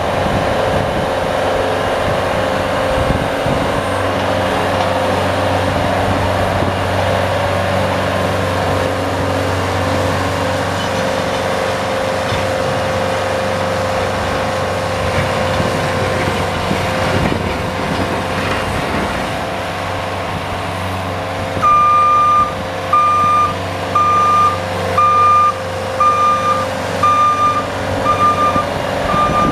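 A snow-plowing vehicle's engine running steadily with a constant whine. About three-quarters of the way through, a reverse warning beeper starts, beeping a little over once a second as the vehicle backs up.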